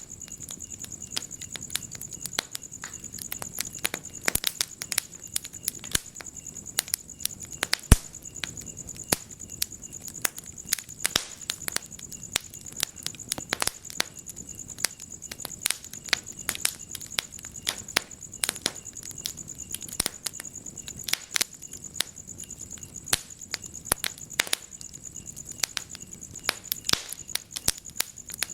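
Wood fire in a fireplace crackling, with irregular sharp pops, one louder snap about eight seconds in. A steady high trill of crickets runs underneath.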